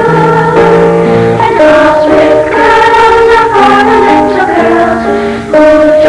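A children's school choir singing with piano accompaniment, moving through held notes that change every half second or so.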